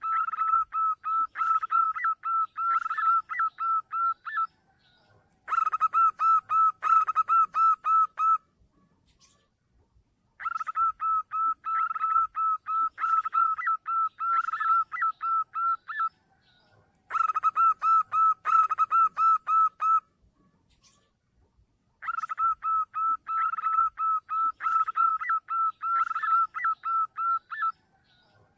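Zebra dove (perkutut) cooing in bouts of rapid, evenly repeated staccato notes. There are five bouts, each a few seconds long, with short pauses between them. This is a perkutut lure call, used to draw in other zebra doves.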